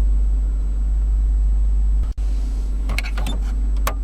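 Low, steady rumble of the 1999 GMC Yukon's 5.7 L V8 idling, heard inside the cabin. There is a brief dropout about halfway and a few light clicks near the end.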